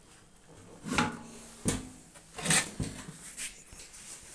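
Knocks and scrapes from the metal cavity body of a microwave oven being handled and shifted into position: about five separate clunks, the loudest about one second in and about two and a half seconds in.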